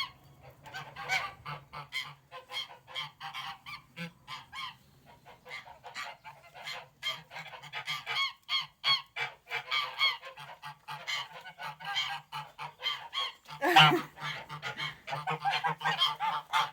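Domestic geese honking and gabbling, many short calls in quick succession, with a louder burst of calls about fourteen seconds in.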